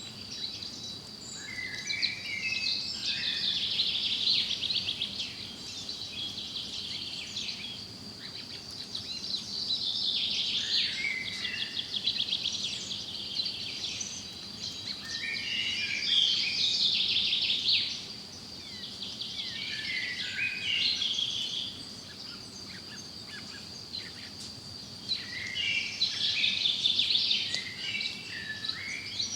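Forest songbirds singing: warbling song phrases of two to three seconds that recur every several seconds, over a steady high-pitched tone.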